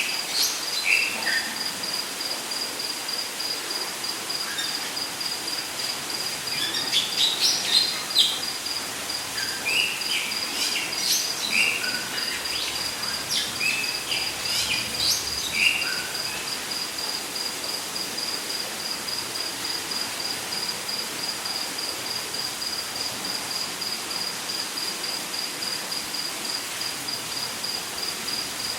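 Rainforest ambience: an insect, cricket-like, trilling in a steady, evenly pulsed high note throughout, with scattered bird calls and chirps over roughly the first half that then die away, all over a steady background hiss.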